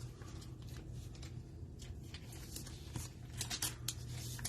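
Trading cards being handled: scattered faint clicks and rustles as cards are slid and shuffled, over a steady low hum.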